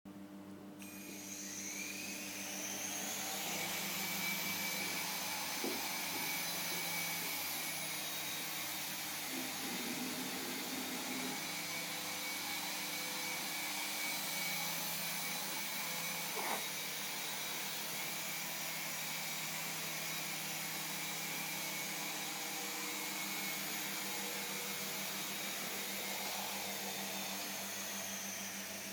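Electric motors and rotors of a small iSuper toy helicopter spinning up about a second in, rising in pitch, then running with a steady high whine, with a brief tick about midway.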